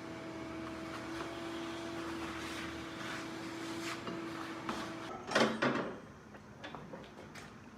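A small motor running steadily with a constant hum and hiss, cutting off about five seconds in. A short clatter follows, then a few light knocks.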